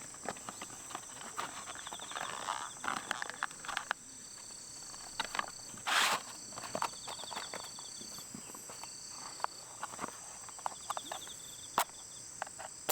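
Autumn night insects chirping steadily in high, even tones and short trills, bell crickets among them. Scattered sharp clicks run through it, with a louder knock about six seconds in.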